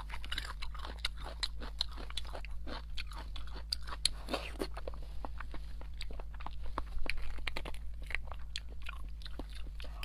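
Close-miked mouth sounds of eating soft, oily beef bone marrow: wet chewing and a dense run of small, irregular clicks.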